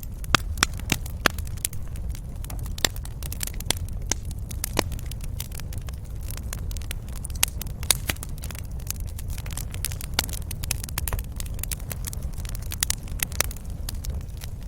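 Wood fire burning in a fireplace, crackling with irregular sharp pops over a low steady rumble of flame.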